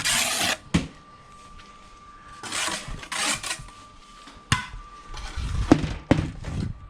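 Steel brick trowel scraping mortar, twice in longer spells, with several sharp knocks of trowel on concrete block as blocks are buttered and laid.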